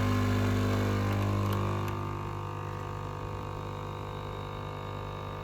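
Dolce Gusto capsule coffee machine's pump buzzing steadily as it forces water through a reusable capsule of finely hand-ground coffee, easing to a slightly lower level about two seconds in.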